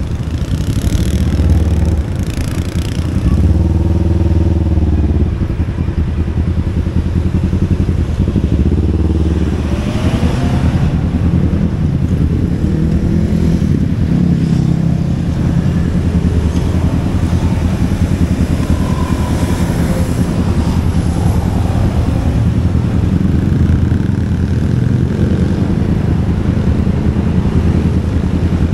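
Motor scooter engine running on the move, its pitch rising and falling several times with the throttle, with brief swells of road and wind hiss.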